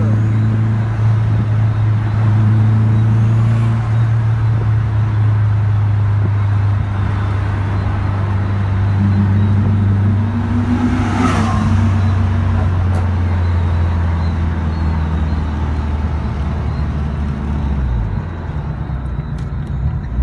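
A car engine running steadily with a strong low drone. About eleven seconds in there is a brief sound that rises and falls, and near the end the engine note drops and shifts.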